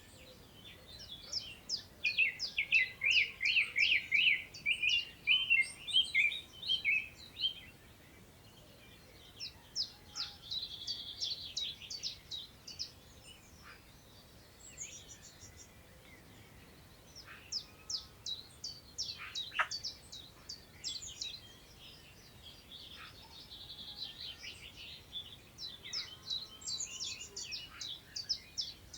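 Songbirds singing in bursts of rapid, high twittering phrases, each several seconds long, with short pauses between them; the first burst, about a second in, is the loudest.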